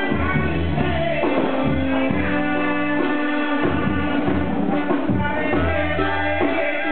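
Mexican band music with brass instruments playing sustained notes over a stepping low bass line.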